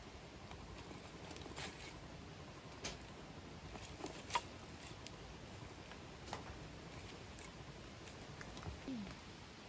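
Faint steady hiss with scattered light taps and clicks, a sharper tick about four seconds in, and a short falling low sound near the end.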